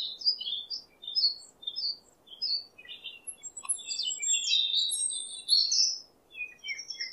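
Small birds chirping: short high calls a couple of times a second, growing busier with several birds overlapping around the middle, over a faint hiss.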